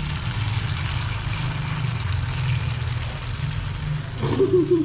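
Bakwan vegetable-fritter batter frying in hot oil in a wok, a faint steady sizzle over a low steady hum. A short vocal sound comes near the end.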